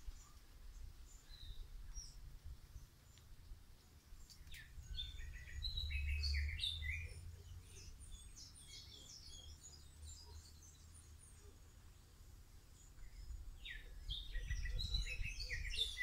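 Birds chirping and singing in two bouts of quick high notes, one starting about four seconds in and another near the end, over a low rumble.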